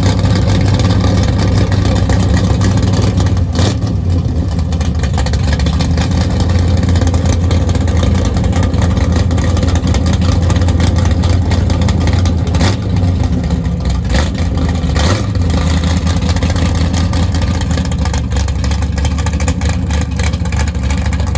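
Car engine running loudly and steadily, with a strong low, even drone.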